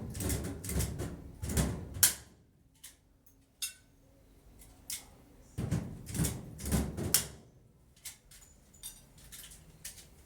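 Knocks and clatter of hard objects being handled, in two busy spells, one at the start and one about six to seven seconds in, with single clicks between.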